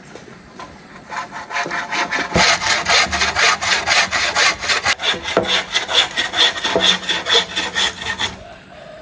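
Hand saw cutting through wood in quick back-and-forth strokes, about four a second; it starts about a second in and stops near the end.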